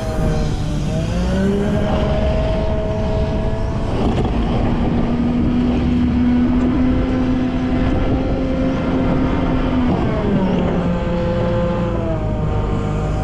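Volvo L90F wheel loader's diesel engine revving up and down as it works: it dips and climbs at the start, holds high revs for several seconds, drops back about ten seconds in and rises again near the end.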